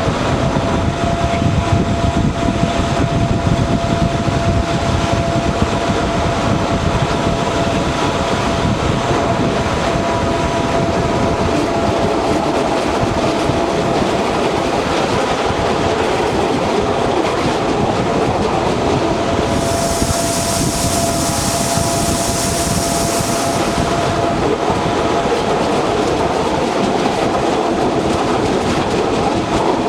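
Electric train running at a steady speed: wheel and rail noise with a steady whine underneath. A high hiss joins in for about four seconds past the middle.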